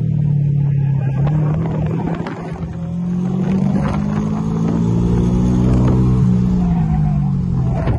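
Car engine heard from inside the cabin during a hard autocross run: its pitch drops about a second in, climbs again from about two to four seconds, then falls back near the end, under wind noise on the microphone.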